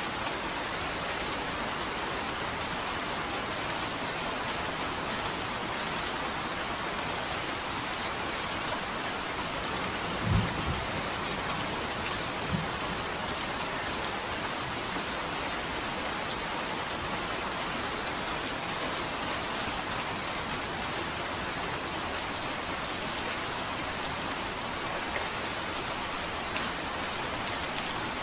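Steady rain falling, with a short, low rumble of thunder about ten seconds in and a smaller one two seconds later.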